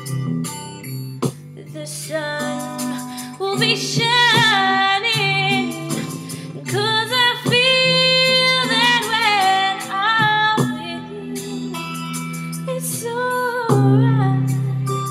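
A woman singing a slow ballad over a karaoke instrumental backing track, holding long notes with vibrato over steady sustained chords. The voice comes in about two seconds in and drops out near the end, leaving the backing.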